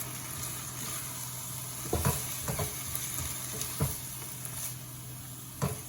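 Minced beef and sauce sizzling in a pan while being stirred, with a few knocks of the stirring utensil against the pan.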